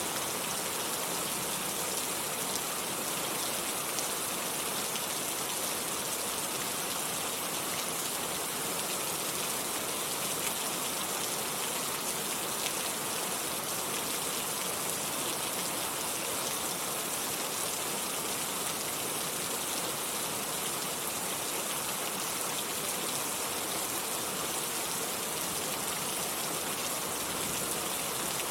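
Steady rain falling, an even hiss of drops on surfaces with no thunder in this stretch.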